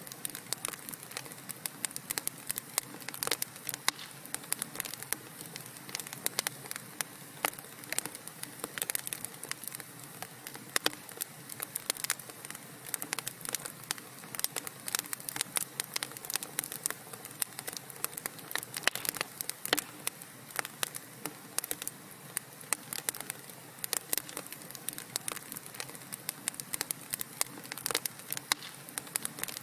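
Wood fire in a fireplace crackling: dense, irregular sharp pops and snaps over a soft, steady hiss of burning logs.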